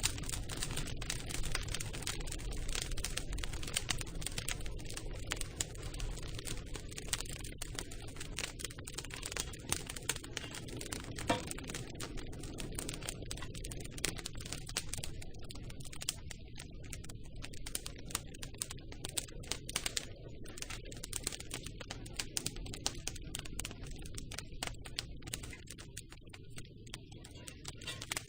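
Campfire crackling: dense, irregular pops and snaps of burning wood over a low steady rumble, thinning slightly in the second half.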